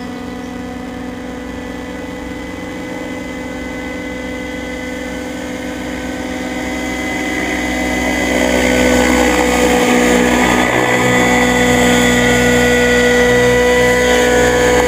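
The AS90's newly replaced engine, fitted with a new muffler, running smoothly without popping. About seven seconds in it speeds up to a louder, steady higher speed and holds there.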